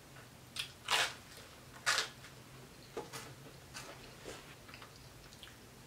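Close-miked eating sounds of a bite of toasted garlic bread being chewed: a few short crunchy, moist mouth sounds, the strongest about one and two seconds in, then softer ones.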